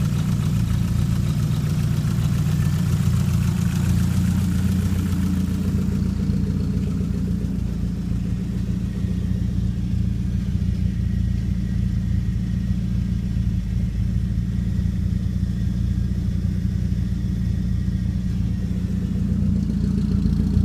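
Toyota Celica GT4's turbocharged 2.3-litre stroker 3S-GTE four-cylinder idling steadily, with no revving. A higher, hissing layer over the low idle drops away about six seconds in.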